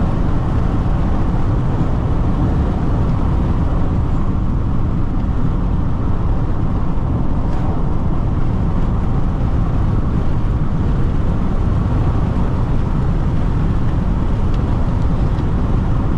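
Steady road and wind noise inside a Jeep Renegade diesel cruising at high highway speed with its windows open.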